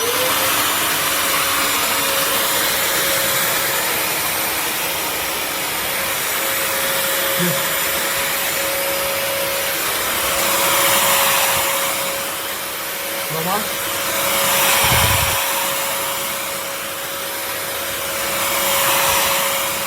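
Bissell CrossWave HydroSteam Pet wet-dry vacuum mop switching on and running, its motor spinning up to a steady whine. The loudness swells and dips every few seconds as it is pushed back and forth over a stained floor.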